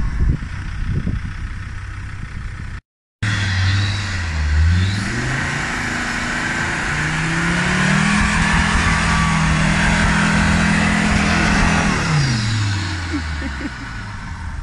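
Land Rover Defender engine revved and held at high revs for several seconds, then dropping back, as the truck tries to drive out of a deep muddy bog rut. The sound cuts out briefly about three seconds in.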